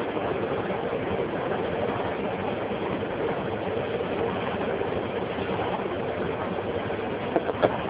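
CNC vertical machining center running steadily, with a few sharp clicks near the end.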